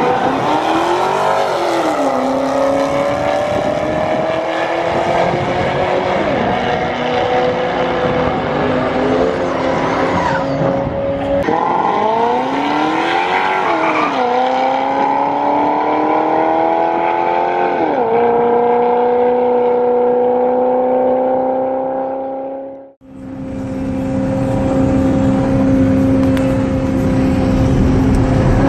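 Supercharged LS2 V8 of a C6 Corvette through a Corsa Extreme exhaust, accelerating while driving: the engine note climbs and drops back at each automatic upshift, several times over. After a sudden cut near the end, it runs at a steady pitch, cruising.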